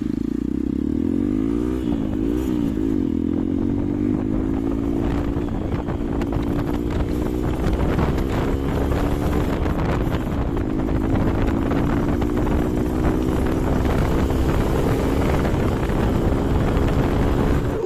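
Hero Xpulse 200 single-cylinder motorcycle engine running under way. Its revs dip and rise a few times in the first three seconds, then hold steady and climb slowly, with a constant rough crackle over it.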